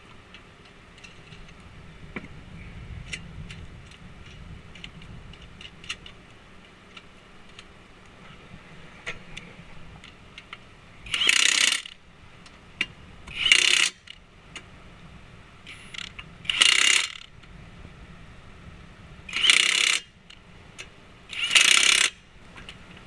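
Impact wrench run in five short bursts, one for each lug nut, spun on and hammered tight as a wheel is fitted to a car, with lighter ticking and clinking of the tools before it.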